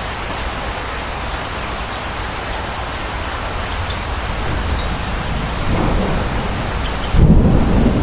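Steady rain with thunder rumbling in the second half, building slowly and then growing sharply louder and deeper about seven seconds in.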